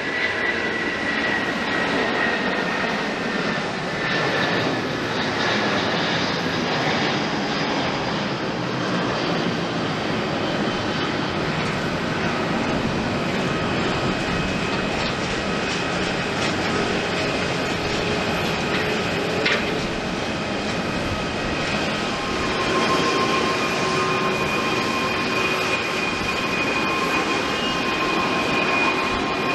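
Jet airliner engines running steadily, with an even rush and high whines: one slides slightly down in pitch in the first few seconds, and steadier whines come in during the second half.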